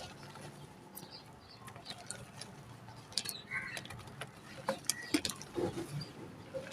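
Dried mud being crumbled by hand, with irregular dry crackles and crunches of breaking clay.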